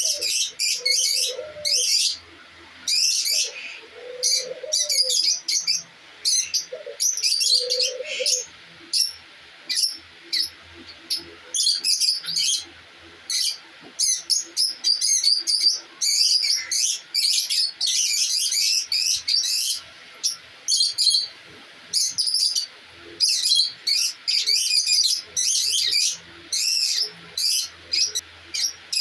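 Many small aviary birds chirping and twittering in quick, overlapping high calls. A low cooing call sounds four times in the first nine seconds or so.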